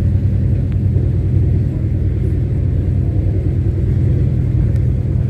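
Steady low rumble of a moving passenger train, the carriage running along the track at speed.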